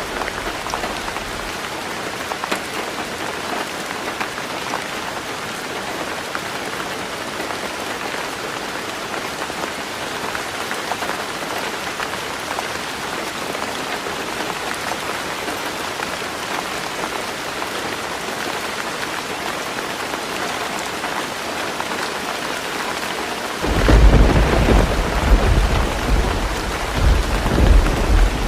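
Heavy rain falling steadily on a tin roof. Near the end, a loud low rumble of thunder starts suddenly and rolls on in several surges.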